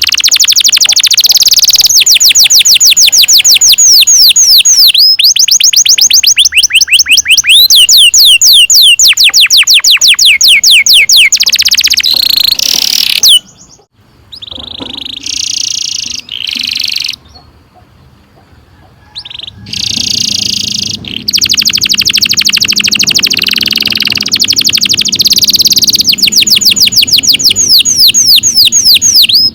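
Domestic canary singing long rolls: loud, fast trills of quickly repeated falling notes. In the middle the rolling breaks off for several seconds into short, quieter phrases, then the long trills resume.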